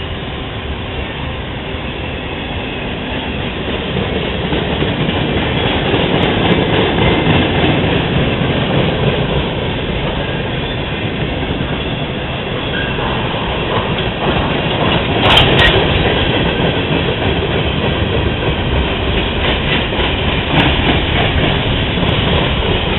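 CSX freight train rolling past, its wheels clacking over the rail joints in a steady rumble that swells a few seconds in, with a sharp clank about fifteen seconds in.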